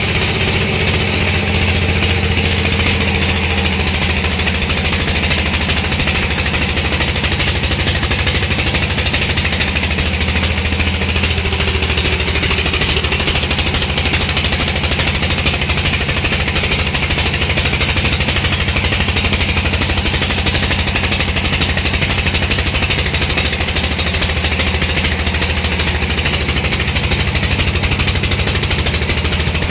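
Engine-driven machinery running steadily, with a low hum and a fast, even pulsing that does not change.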